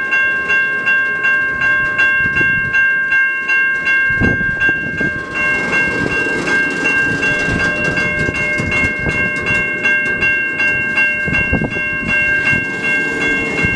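Railroad crossing bell ringing steadily at about three strokes a second. Under it, a slowly moving freight train's wheels rumble and clack over the crossing.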